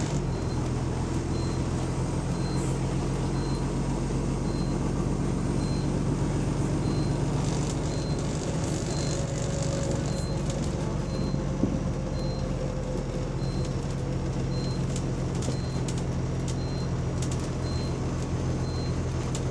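Diesel engine of a double-deck bus running steadily, with the drone of an exhaust leak. A faint high beep repeats about twice a second throughout.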